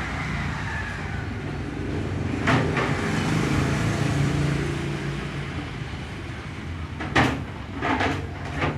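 A motor running with a steady low hum, with a sharp knock about two and a half seconds in and three more knocks near the end; the knocks may be the strange noise the title points to.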